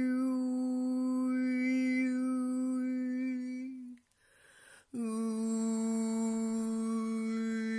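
A single voice toning one long steady note, its overtones sweeping up and down as the vowel shifts. It breaks off a little before halfway for an audible breath, then resumes on the same pitch.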